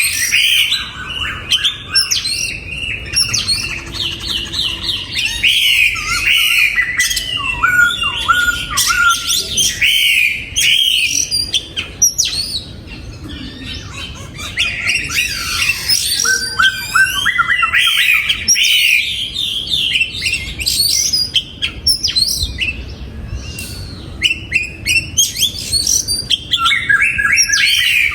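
Oriental magpie-robin singing a long, varied song of quick whistled phrases and chattering notes, with a quieter stretch about halfway through.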